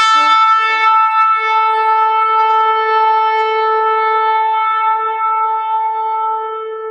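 One long, sustained blast on a horn, the ceremonial 'trumpet' announcing the Lord's return: a single held note, a little unsteady in its first second, then steady and slowly fading toward the end.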